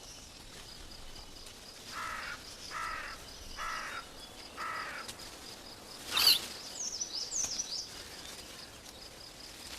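Animal calls in a mountain forest: four short calls about a second apart, then a sharp, loud high call about six seconds in, followed by a few high bird chirps, over a faint steady high whine.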